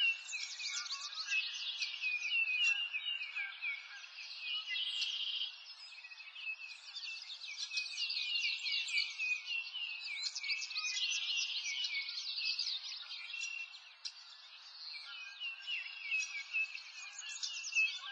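Songbirds chirping and trilling in a dense, continuous chorus of quick repeated high notes, thinning briefly twice.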